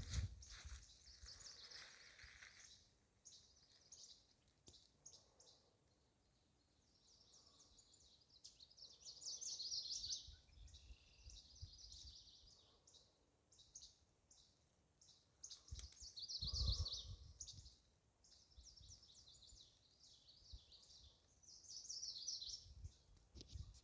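Small songbirds chirping and twittering in quick high trills, on and off throughout. About two-thirds of the way in there is one brief low thump.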